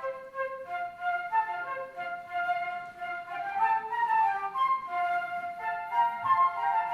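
Several flutes playing a melody together in harmony, in a flute-ensemble arrangement.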